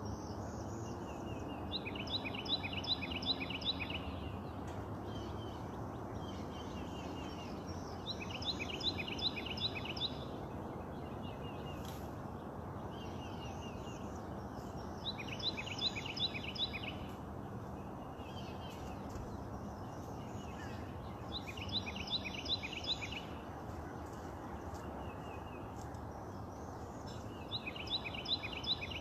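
A songbird singing the same phrase over and over, about every six seconds: a few short notes leading into a quick run of repeated notes. A steady low background noise runs underneath.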